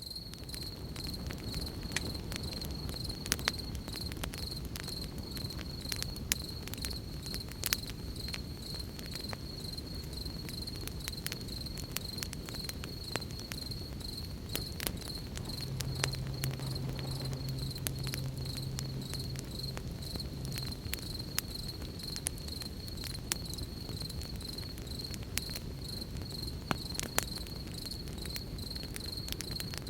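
Crickets chirping in a steady, fast trill, with a campfire crackling and popping in irregular sharp snaps. About halfway through a low steady hum sounds for roughly five seconds.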